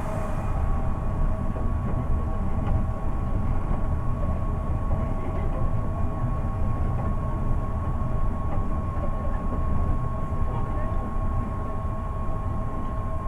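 Seibu 8500-series rubber-tyred people-mover running between stations: a steady low rumble from the running gear on the guideway, under a high whine from its Hitachi IGBT-VVVF traction drive held at one steady pitch.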